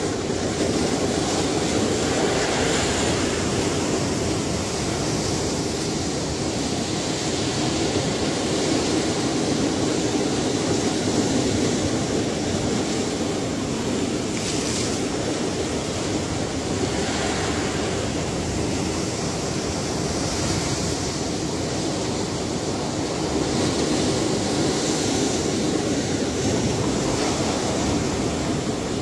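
Ocean waves washing and breaking in a steady continuous surf, with several brief hissing swells as waves break.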